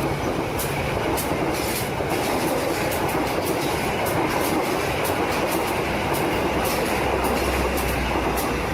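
Train running steadily, a continuous rolling rumble with the wheels clicking over the rail joints two or three times a second.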